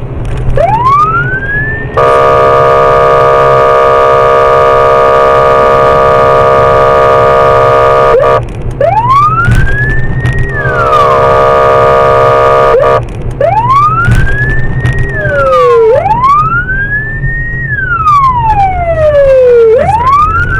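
Police car siren sounding in repeated rising yelps, broken by a long steady horn blast of about six seconds and a shorter one a few seconds later; toward the end the siren rises and falls in longer wails. An engine hums underneath.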